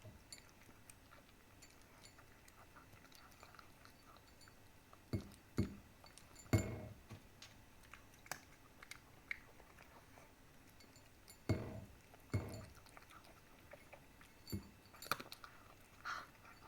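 Cat chewing its food: sharp crunches and bites in small clusters, with quiet gaps of a few seconds between them.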